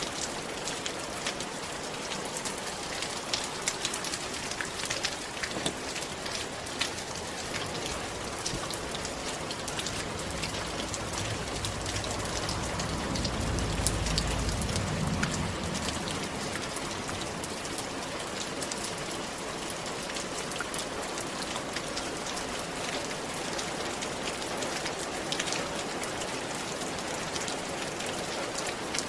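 Rain falling steadily on a roof, a dense hiss with many sharp drop ticks. About halfway through, a low rumble swells for a few seconds and fades again.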